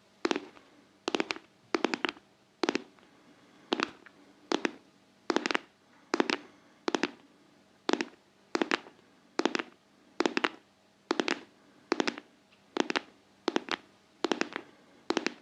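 Intense ASMR 'heart-tapping': sharp taps on a hard surface in a steady rhythm, roughly one tap or quick double tap every 0.8 seconds.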